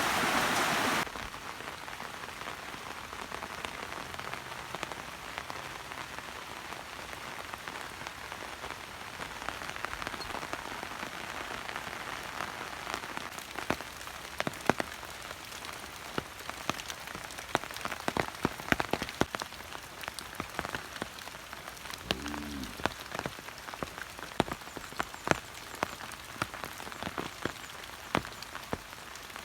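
Rain falling steadily, with many separate sharp drop hits close by. A louder rushing of water cuts off about a second in, and a brief low sound comes about two-thirds of the way through.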